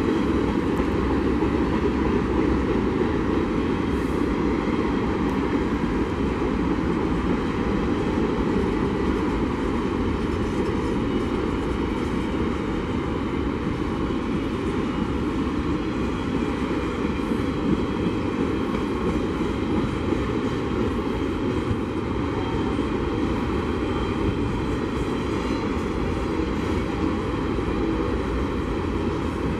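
Empty intermodal well cars of a Norfolk Southern freight train rolling past: a steady rumble of steel wheels on rail, with a couple of faint clicks.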